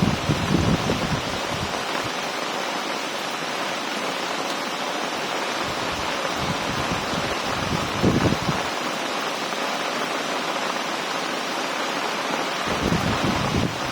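Heavy rain pouring steadily in a storm, a dense even hiss. Gusts of wind buffet the microphone in low rumbling bursts at the start, again about six to eight seconds in, and near the end.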